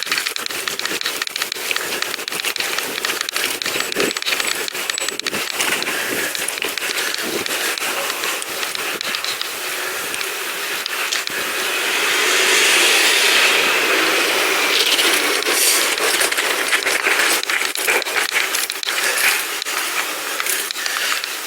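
Bicycle rolling along a rough towpath: tyres crunching and crackling over grit with constant rattling clicks, and a louder hissing rush swelling up about halfway through.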